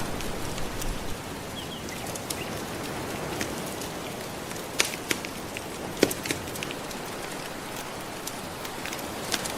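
Gentle ocean waves washing steadily, with a wood fire crackling over them in scattered sharp pops, the two loudest near the middle.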